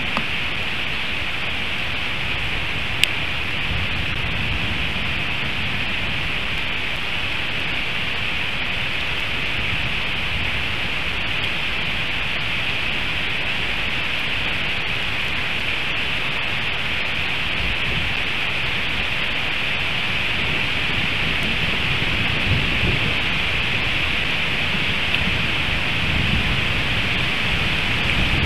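Heavy thunderstorm rain falling steadily, an even hiss, with a low rumble of thunder building over the last few seconds. One sharp click about three seconds in.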